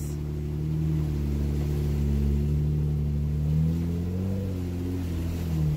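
Jeep's engine pulling at low revs as it crawls through a muddy off-road trail, running steadily with small rises and dips in pitch.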